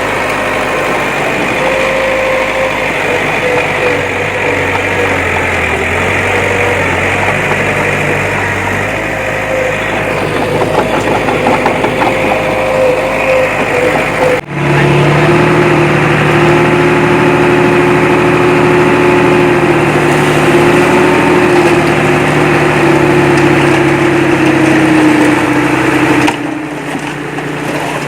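Diesel engine of heavy earthmoving machinery running steadily, with a slightly wavering tone. About halfway it switches abruptly to a louder, lower-pitched engine sound, which changes again near the end.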